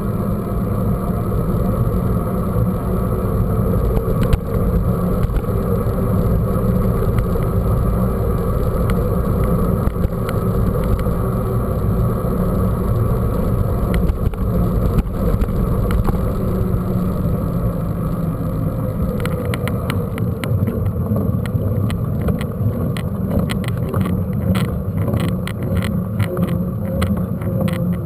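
Steady low rumble of a mountain bike riding along a dirt trail, with wind on the camera microphone. From about two-thirds of the way in, quick clicks and rattles come through, the bike and camera mount shaking over rough ground.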